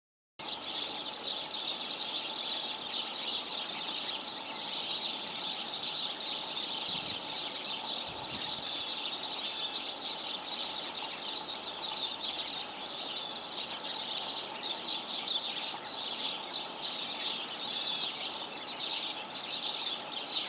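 A flock of small wild birds chattering together in the trees: a dense, continuous mass of overlapping high chirps and calls, starting just after a brief moment of silence at the very beginning.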